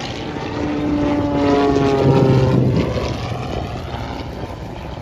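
Propeller airplane engine droning as the aircraft passes, its pitch falling and loudest about two seconds in, then fading.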